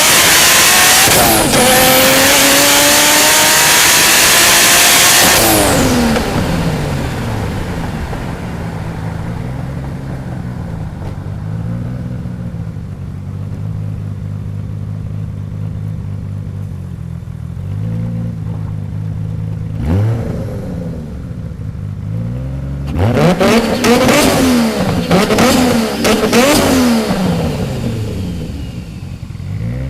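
Turbocharged RB26 2.6-litre straight-six of a 1991 Nissan Skyline GT-R, fitted with a single Garrett GT3076 turbo, pulling hard with rising revs and a gear change about a second and a half in. Around six seconds in it comes off the throttle and the revs fall to a steady low running note. It gives a quick rev about twenty seconds in, then several revs rising and falling between about 23 and 27 seconds, before settling back to a steady low note.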